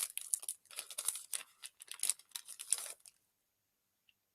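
Plastic snack wrapper of a custard cream cake being opened by hand, with quick crinkling and tearing that stops about three seconds in.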